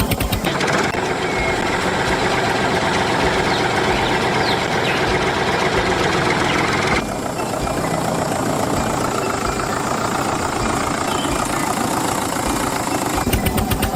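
An engine running steadily, with a change in tone about seven seconds in.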